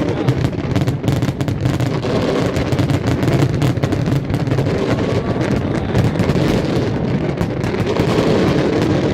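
Large fireworks display going off without a break: a dense, continuous run of bangs and crackling.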